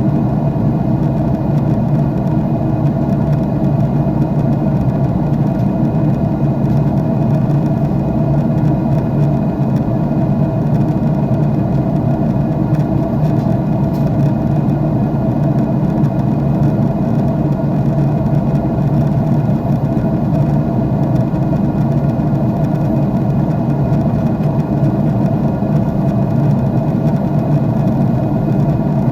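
Steady roar of a jet airliner's engines and airflow heard in the passenger cabin during cruise, a constant low rumble with faint steady hum tones.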